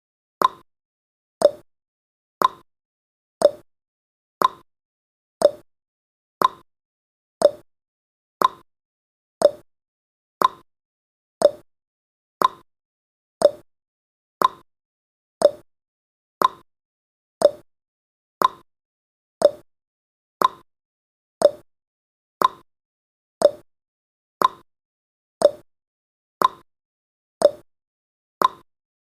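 Countdown timer's tick sound effect: a short, sharp tick once every second, each fading quickly, about thirty in a row at an even pace.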